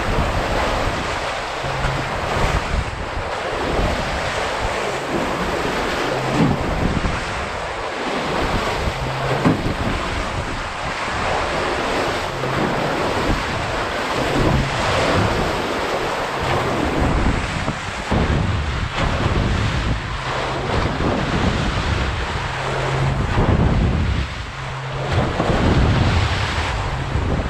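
Wind buffeting the microphone over the steady rush and wash of sea waves, as heard from a sailing boat under way; the gusts rise and fall throughout.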